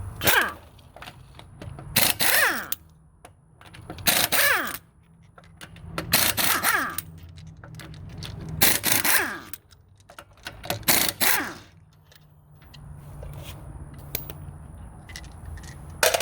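Pneumatic impact wrench breaking a car's lug nuts loose: six short rattling bursts about two seconds apart, each winding down in pitch as the trigger is let go.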